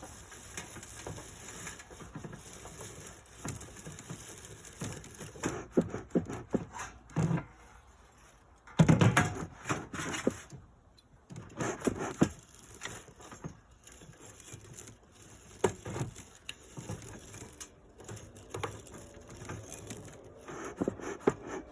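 Handling noises from tending a beekeeper's smoker lit with pine straw: irregular knocks and rustling, with a few louder bursts about halfway through.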